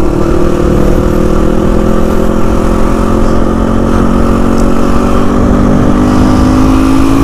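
Motorcycle engine running under way. Its note rises slowly and steadily as the bike gathers speed, over a steady low rumble.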